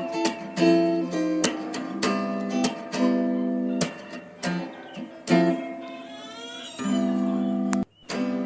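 Background music: an acoustic guitar strumming chords, with a brief gap near the end.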